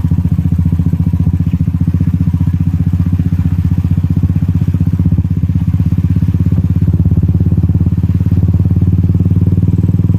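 Royal Enfield Classic 350's single-cylinder engine running through a loud exhaust with a steady, low-pitched pulsing beat at even cruising revs while riding.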